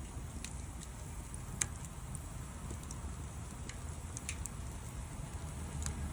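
Wood bonfire crackling: a handful of sharp, irregular pops over a low, steady rumble, the loudest pop about a second and a half in.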